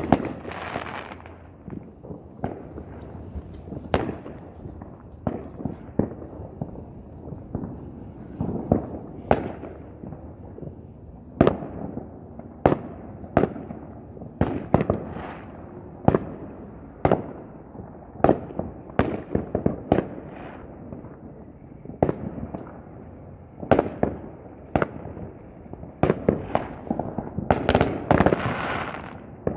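Fireworks going off: dozens of sharp bangs at irregular intervals, some in quick clusters, over a steady rumble of more distant explosions. A dense crackling swell comes near the end.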